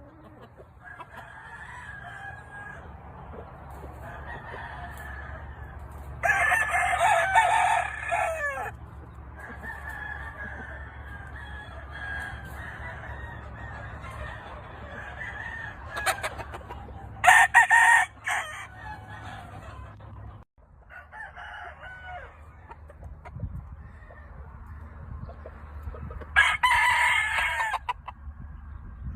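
Roosters crowing: three loud crows, the first about six seconds in, a shorter one past the middle and another near the end. Fainter crowing and clucking from the flock continue in between, over a low steady hum.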